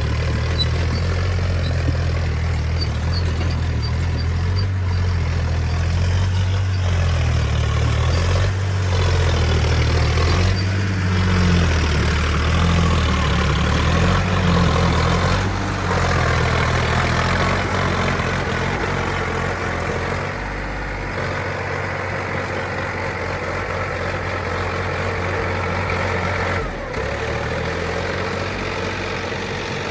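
Tractor diesel engines running, a steady low drone whose pitch steps up and down several times, then thins out after about twenty seconds.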